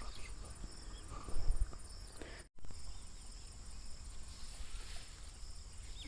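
Crickets chirping in a steady, high, pulsing trill over a low outdoor rumble. One thump sounds about a second and a half in, and the sound drops out for an instant just after two and a half seconds.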